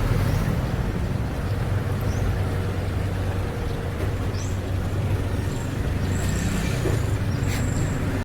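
Steady motor vehicle engine and road traffic noise, a low rumble, with a few short high squeaks in the second half.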